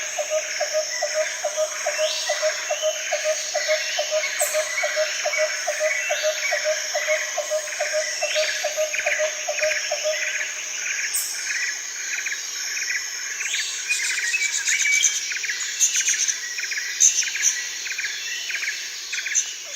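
Jungle ambience: a dense chorus of insects with scattered bird calls over it. A low, evenly repeated call pulses about four times a second and stops about halfway through.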